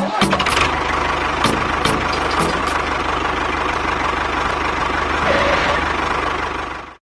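An engine running steadily with a fast low pulse, cutting off suddenly near the end.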